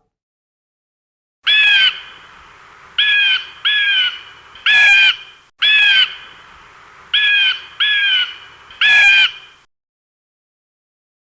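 A crow cawing: eight short, harsh caws, some single and some in quick pairs.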